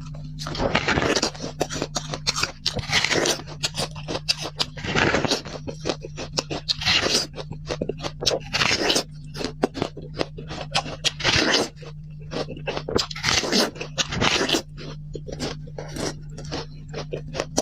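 Close-miked eating sounds: rapid crunching, scraping and clicking, dense and irregular, over a steady low hum.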